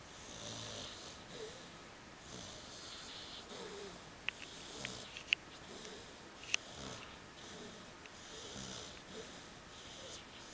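Pit bull snoring in her sleep: slow, regular snoring breaths, one roughly every two to three seconds. A few sharp clicks come between about four and six and a half seconds in.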